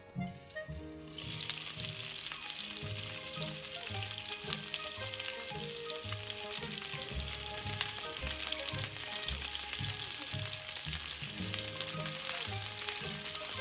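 Pork-stuffed green peppers sizzling in oil in a frying pan, a dense crackling sizzle that sets in about a second in. Soft background music plays underneath.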